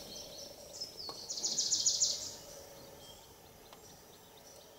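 A bird calling in the open: a short high whistle, then a rapid high trill of about ten notes a second, lasting about a second, over faint outdoor background noise.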